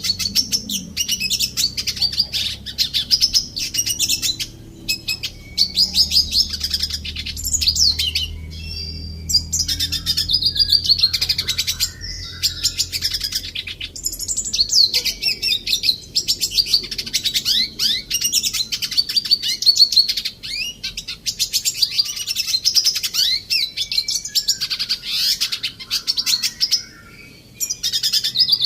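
Red siskin singing a fast, twittering song of rapid high chirps, in long phrases broken by a few brief pauses.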